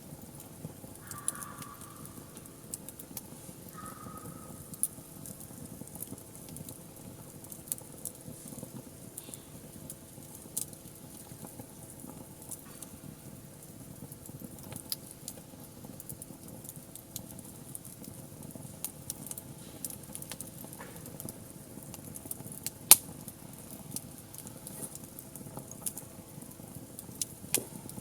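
Wood fire crackling, with scattered sharp pops and one louder pop about three quarters of the way through.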